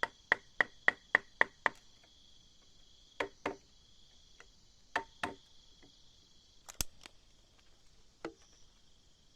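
Repeated sharp blows of a hand tool striking timber: a fast run of about seven blows in the first two seconds, then single and paired blows every second or two. Insects buzz steadily behind.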